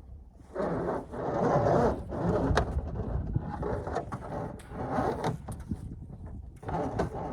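Pickup truck driving under load as it works itself free from being stuck, starting about half a second in, with scattered sharp clicks.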